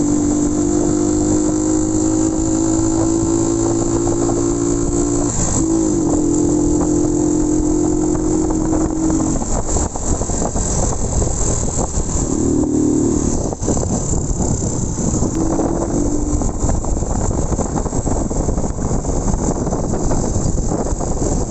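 Motorcycle engine pulling at road speed, its note climbing slowly, with a gear change about five seconds in. From about ten seconds in, wind noise on the microphone mostly covers the engine, which is heard again only briefly twice.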